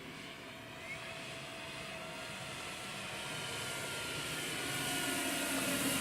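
Electric-powered RC scale model airplane in flight: a steady motor and propeller whine that grows steadily louder as the plane approaches.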